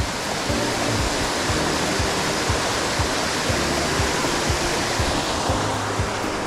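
Waterfall rushing steadily, with water pouring over rock. Soft background music with held low notes and a light regular beat plays beneath it.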